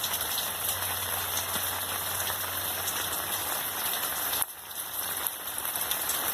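Steady rain falling, a dense hiss with scattered drop ticks. It dips in loudness for about a second roughly two-thirds of the way through, then comes back.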